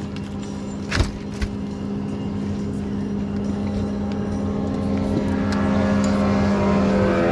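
Boat outboard motor running steadily, getting louder, with its pitch rising near the end. A sharp knock about a second in, and a smaller one just after.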